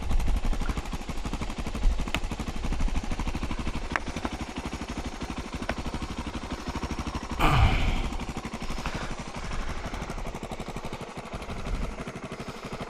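Suzuki DR650's single-cylinder engine idling through a Lexx slip-on exhaust, a fast, even thumping beat, just after starting. About seven and a half seconds in it swells briefly and the pitch drops back, like a short blip of the throttle.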